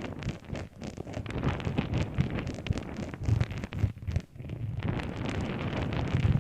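An object handled close to the microphone: dense rustling and crackling made of many small clicks over a low rumble.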